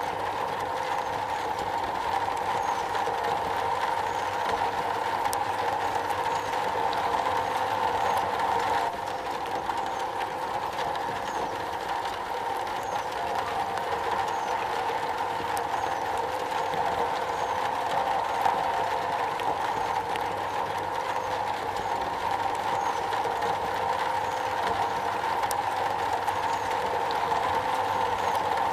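Rain falling steadily on metal, a dense, even pattering.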